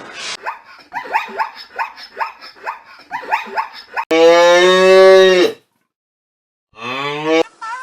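A cow mooing: one long, loud, steady moo about four seconds in, and a shorter rising call near the end. Before it comes a quick run of short repeated calls from another animal.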